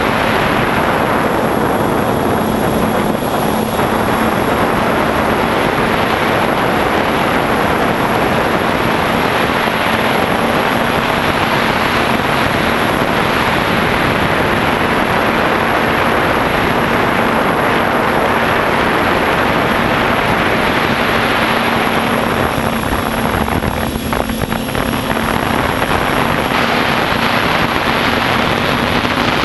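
Radio-controlled quadcopter's motors and propellers droning steadily, a rushing noise with a constant hum under it. The noise dips briefly about four-fifths of the way through, then returns.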